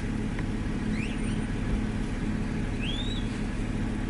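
Steady low rumble of a car, with a few short high chirps over it about one and three seconds in.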